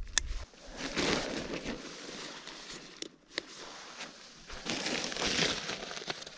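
Tent fabric rustling and crinkling as a one-person Naturehike tent is handled and clipped onto its frame, in uneven swells, with a few sharp clicks near the start and about three seconds in.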